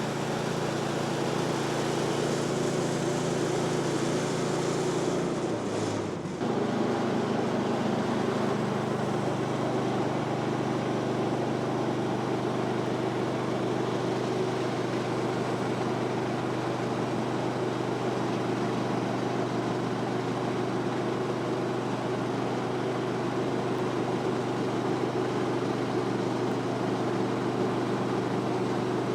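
Woodland Mills HM126 portable sawmill's gas engine running steadily, with a brief change in its pitch about six seconds in.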